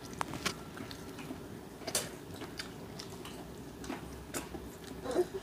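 Eating sounds of fried chicken being bitten and chewed close to the microphone: irregular crisp crackles and clicks, with the sharpest a couple of seconds in and near the end.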